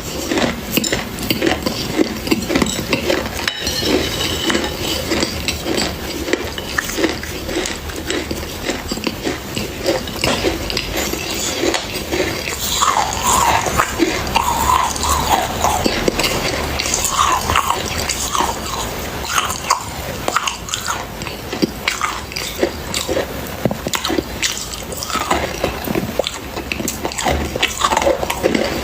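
Close-up biting and crunching of dry clay: a dense, continuous stream of crisp cracks and crumbles, with a few short squeaky sounds about halfway through.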